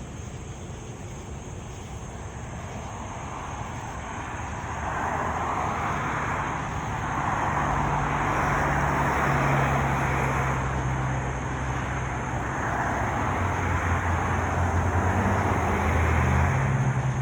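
Vehicle noise that swells and fades twice, over a low steady engine hum.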